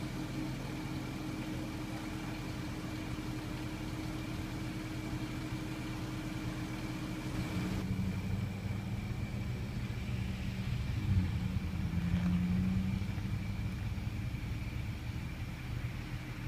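Vehicle engine idling with a steady low hum and a faint steady high whine; the hum shifts to a different pitch about eight seconds in.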